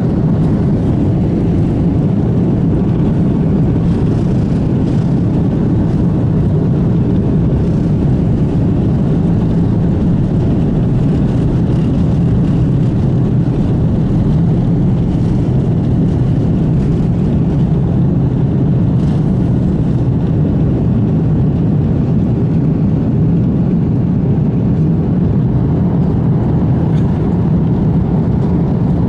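Airbus A330-300 airliner's Rolls-Royce Trent 700 turbofans and airflow heard inside the passenger cabin: a loud, steady, low rumble with no change in pitch.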